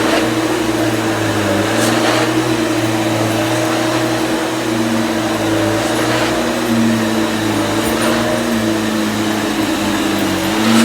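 Vintage Hoover vacuum cleaner running steadily, its power head turning on a used belt; a steady motor hum with one tone wavering a little in pitch.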